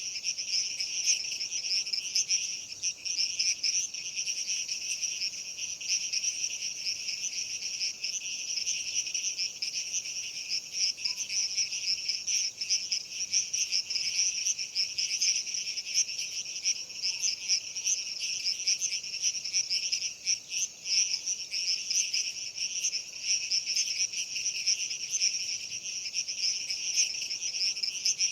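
Steady, dense chorus of crickets chirping, a fast shimmering trill that never pauses.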